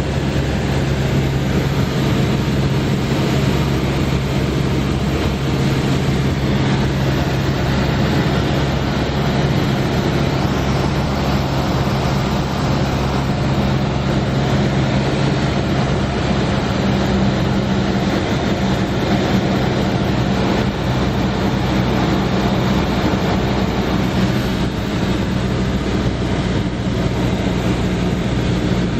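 Cessna 172S Skyhawk's four-cylinder Lycoming IO-360 engine and propeller in flight: a steady, loud drone with a low, even hum under a broad rushing noise. The engine note shifts slightly about two-thirds of the way through.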